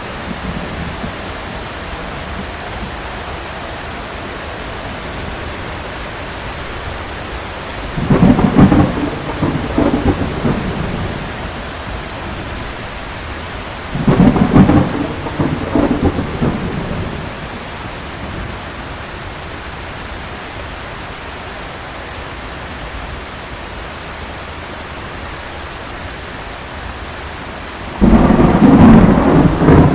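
Heavy rain falling steadily, with three loud thunderclaps rolling out over two to three seconds each: one about eight seconds in, one about fourteen seconds in, and one near the end.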